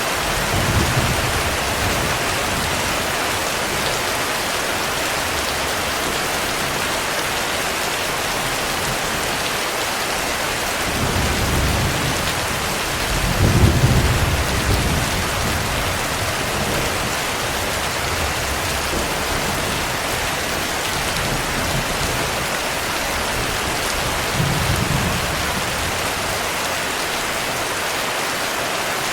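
Heavy, steady rain with rolls of thunder: a short rumble about a second in, a longer, louder one around the middle, and a smaller one near the end.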